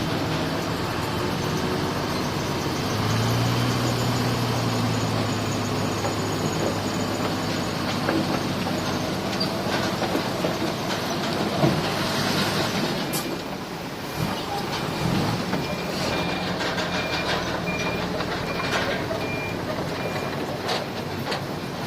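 Diesel engines of heavy earthmoving machinery running, with a sharp clank a little before the middle. In the second half a reversing alarm beeps at a steady rate for about seven seconds.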